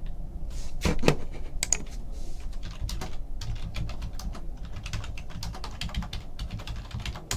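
Typing on a computer keyboard: a run of quick key clicks, with two louder clacks about a second in.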